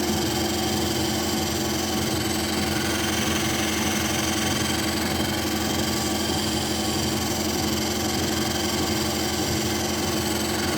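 Treadmill motor and belt running with a toy RC car driving on the belt: a steady machine hum that does not change.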